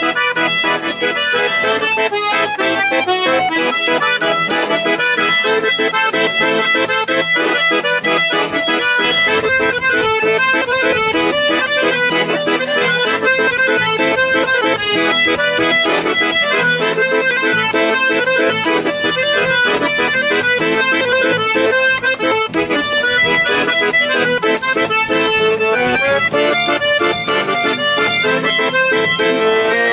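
Accordion playing an Argentine folk tune, a steady run of melody over held chords.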